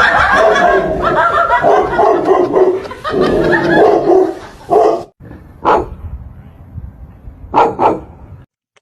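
A dog vocalising loudly and continuously for about five seconds, then, after a sudden break, three short sharp barks, the last two close together.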